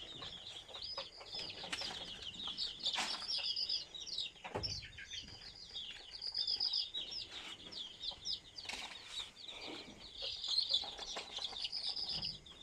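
Many young native chicken chicks peeping together in a dense chorus of short, high chirps, with a few brief knocks in between.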